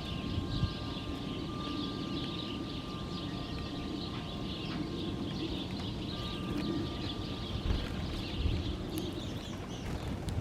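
Many small birds chirping and chattering at once in a steady, dense chorus, over a low continuous rumble.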